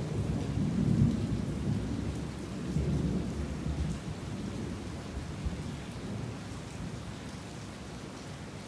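Heavy rain falling steadily, with a low rumble of thunder that swells about a second in and again near three seconds, then dies away, leaving the even hiss of the rain.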